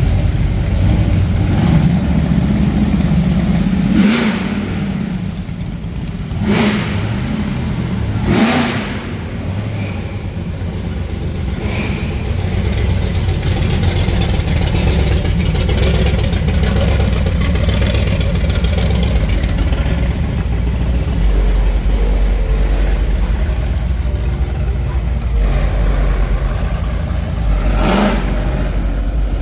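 Vehicle engine running with a steady low rumble, revved briefly several times.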